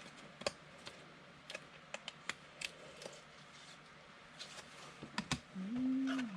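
Trading cards being handled and sorted by hand: scattered light clicks and snaps of card stock. A short hum from a person comes near the end.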